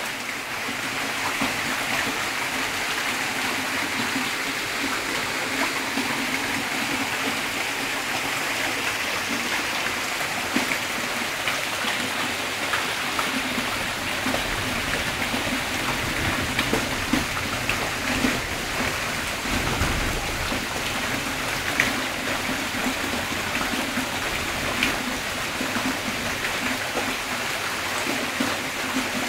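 Heavy rain falling steadily: a dense, even hiss with scattered sharper drop impacts.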